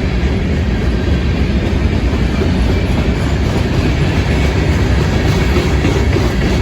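Florida East Coast Railway freight train's cars rolling past, a steady loud rumble of steel wheels on the rails with some clickety-clack.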